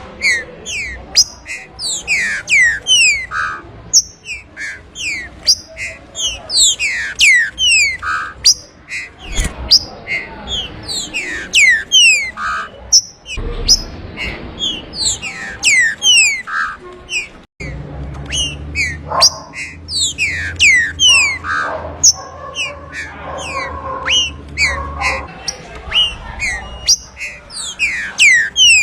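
Green-winged saltator (trinca-ferro) singing: a fast, continuous run of clear whistled notes, each sliding down in pitch. A low steady hum sits under the song for several seconds in the middle.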